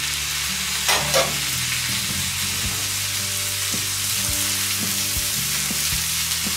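Freshly added chopped peppers and tomatoes sizzling in a hot pan over a charcoal fire. A wooden spatula stirs them, with a few light knocks against the pan.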